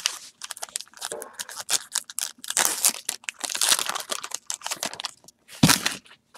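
Plastic-foil wrapper of a baseball-card pack crinkling and tearing in the hands, in irregular rustling bursts, with one sharp rip about three-quarters of the way through.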